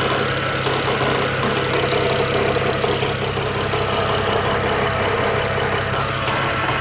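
BMW N54 twin-turbo 3.0-litre straight-six idling steadily, with no revving.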